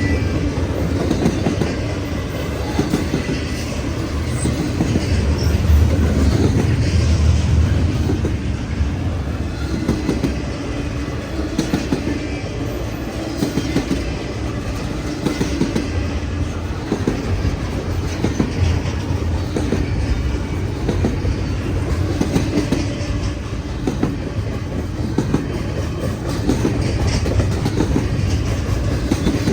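Freight train rolling past, a steady rumble of cars with the wheels clicking rapidly over the rail joints.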